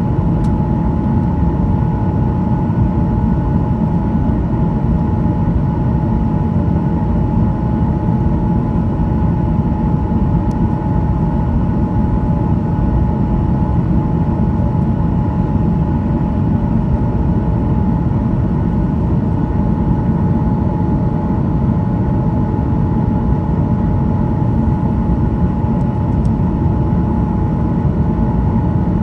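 Steady cabin noise of a Boeing 737-900ER in flight: a deep even rumble of airflow and its CFM56-7B turbofans, with a thin steady whine above it.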